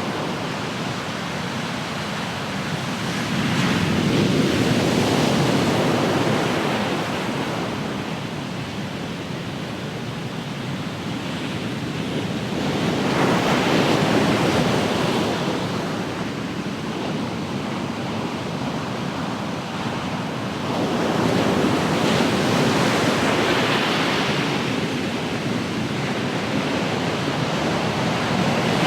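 Ocean waves breaking and washing on the shore, a new wave surging in about every eight to nine seconds over a continuous hiss of surf.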